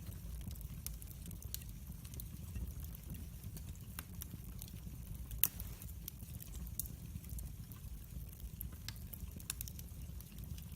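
Wood fire burning in a fireplace: a steady low rumble of the flames with scattered sharp crackles and pops, one louder pop about halfway through.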